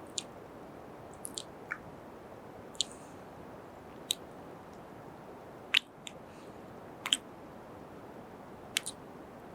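Close-miked kisses and lip smacks, about a dozen short wet pops at irregular intervals over a steady faint hiss. The loudest come a little before the middle and just after it.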